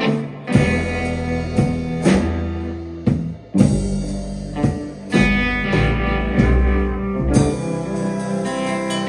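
Live rock band playing an instrumental passage: sustained guitar chords over bass, with sharp drum hits every second or so.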